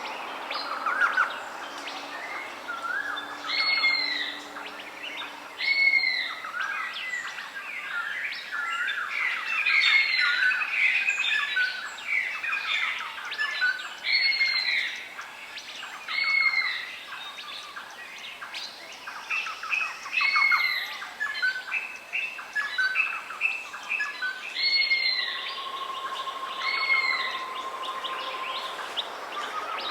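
Several wild birds calling together: one repeats a short arched call about every two seconds over a busy chorus of other chirps and calls, with a long steady note near the end.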